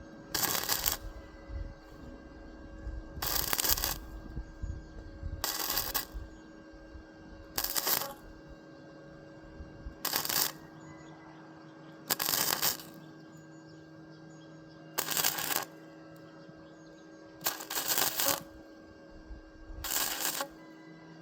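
Arc welder striking short tack welds on a steel pot-stand frame: about nine crackling bursts, each under a second, every two to three seconds, over a steady machine hum.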